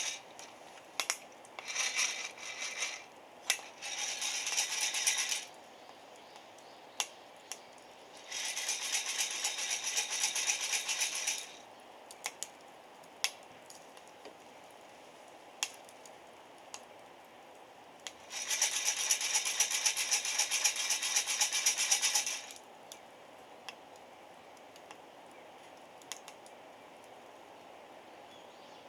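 Coffee beans rattling inside a hand-held roaster as it is shaken over a wood fire. The shaking comes in bouts of a few seconds each, the longest about four seconds, with scattered sharp clicks in between.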